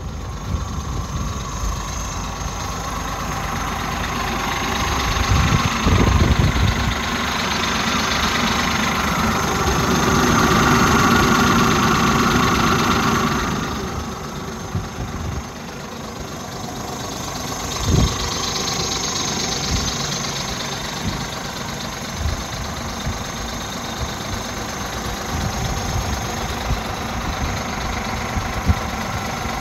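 Scania G370 truck's diesel engine idling. In the middle the engine grows louder for several seconds, then drops back to idle, and there is a single knock a little later.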